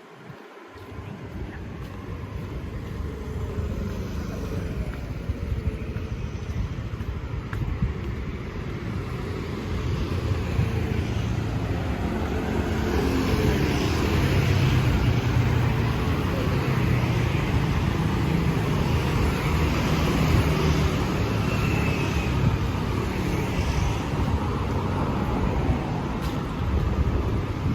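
Road traffic running steadily, with motor vehicles passing, growing louder about twelve seconds in.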